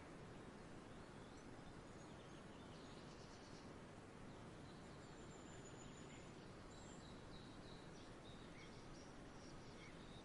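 Faint outdoor ambience: a steady soft background hiss with distant birds chirping now and then.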